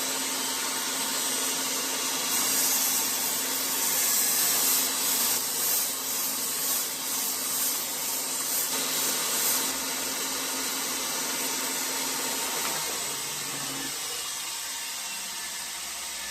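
Belt sander with a 180-grit belt running steadily, with metal-on-belt grinding from about two to ten seconds in as the steel 1911 frame is pressed lightly against it, swelling and fading in pulses. The grinding is sanding pitting out of the frame's surface.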